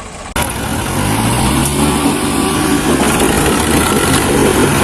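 Diesel tractor engine running hard under heavy load, pulling a loaded trolley bogged in mud; the sound comes in abruptly about a third of a second in and then holds steady and loud.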